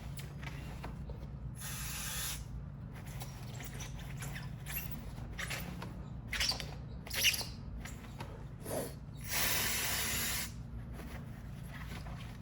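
Aerosol brake cleaner sprayed onto a brake caliper in two hissing bursts, a short one about two seconds in and a longer one near the end, with a few brief sharper sounds between.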